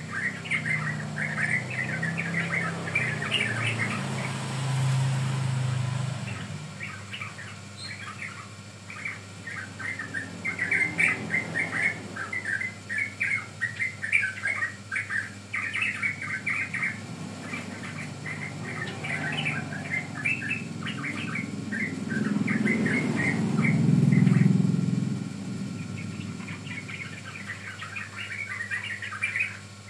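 Yellow-vented bulbul (trucukan) singing in fast, bubbling, chattering phrases, almost without a break, as a lure song. A low rumble runs under it at the start and swells loudest about three-quarters of the way through.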